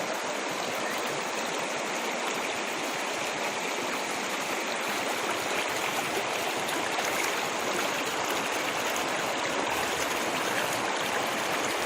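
A stream of running water, flowing steadily with an even rushing sound.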